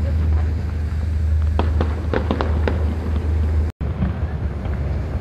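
A fireworks display: a quick run of sharp bangs and crackles comes about one and a half to three seconds in, over a steady low rumble. The sound cuts out for a split second about three quarters of the way through.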